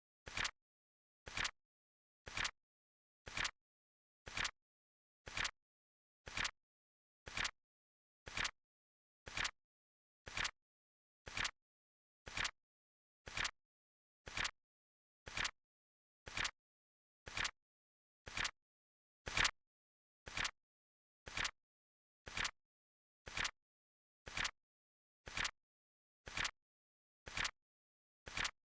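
Flip clock timer sound effect: a short, sharp flip click about once a second in a steady rhythm, one click somewhat louder partway through.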